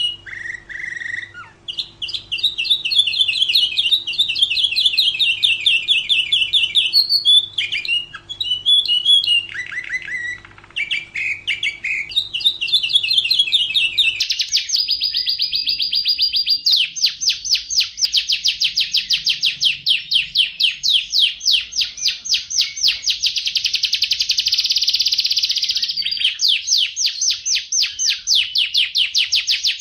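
Domestic canary singing: long runs of rapid trills, each a fast repeat of one note, switching to a new trill every few seconds. About 14 seconds in, the recording changes abruptly to a long, very fast rolling trill.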